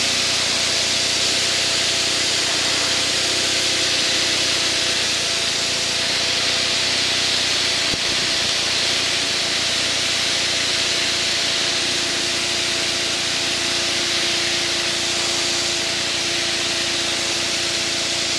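Steady cockpit noise of an aircraft in formation flight: a loud hiss of airflow over a steady engine drone, with a faint steady hum whose lower note grows a little stronger in the second half.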